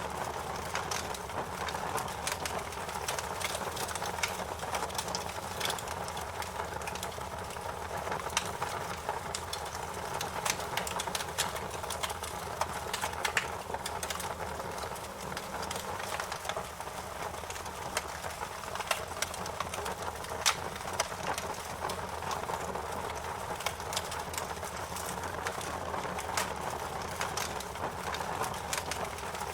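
Wood fire crackling: a steady low rumble of flames with frequent small, irregular pops and snaps, a couple of sharper pops standing out about 13 and 20 seconds in.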